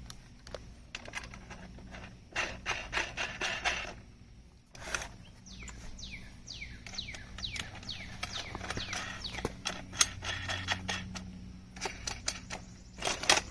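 Nuts being threaded onto the bolts of an aluminium chainsaw mill frame by hand: a run of small metal clicks and rattles in several bursts, with a short lull about four seconds in.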